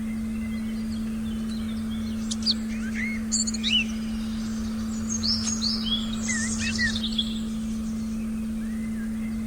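Several wild birds chirping and whistling in short rising and falling calls, busiest from about two to seven seconds in, over a steady low meditation tone and a soft low rumble.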